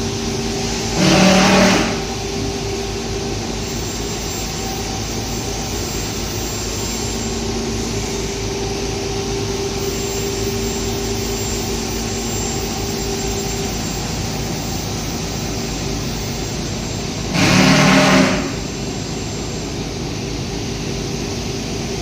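Steady mechanical drone with faint steady tones, swelling twice into a louder surge about a second long: once about a second in and again near the end.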